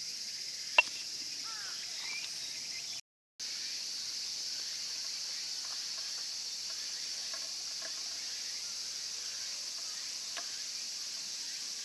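A steady, shrill chorus of insects, with a sharp click about a second in and a brief cut-out just after three seconds.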